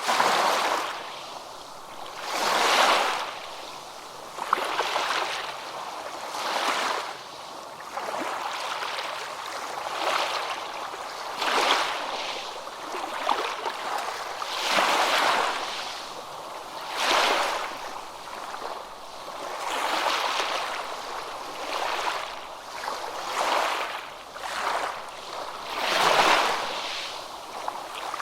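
Small waves washing in and drawing back, a rushing hiss that swells and fades every two to three seconds.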